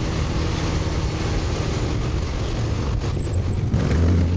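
Motorcycle engine running while riding, under steady wind noise on the microphone; a low engine drone grows louder near the end.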